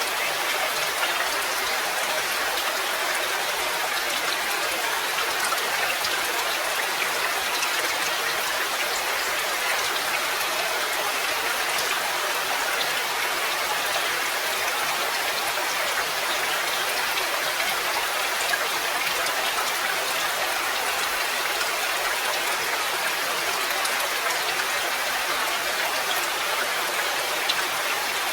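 Steady rain falling, a dense and even patter of raindrops that neither builds nor fades.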